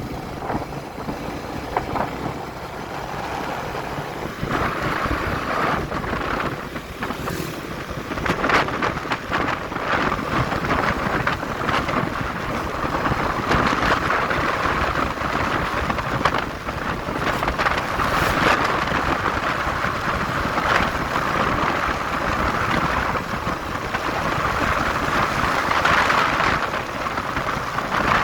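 Motorcycle riding at speed: wind buffeting the microphone over the bike's engine and road noise, getting louder about four seconds in.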